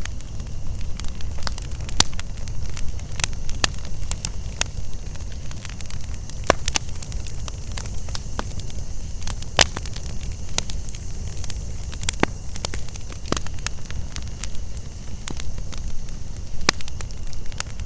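Campfire crackling, with frequent sharp pops and snaps of burning wood over a low rumble of the flames. A steady high chirring of night insects runs underneath.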